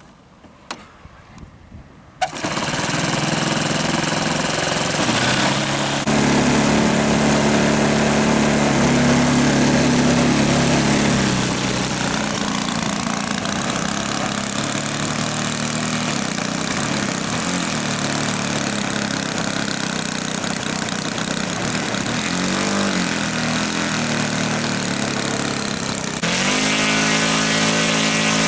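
A small engine starts suddenly about two seconds in and keeps running steadily, its speed rising and falling briefly twice near the end.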